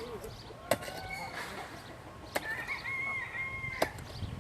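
A rooster crowing, one long held call about two seconds in after a shorter call. Three sharp knocks, from a digging tool striking the ground, come through it.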